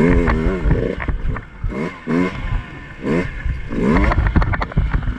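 Two-stroke dirt bike engine revved in short, repeated blips, five or six of them, rising and falling in pitch. Near the end there is a quick run of sharp clacks.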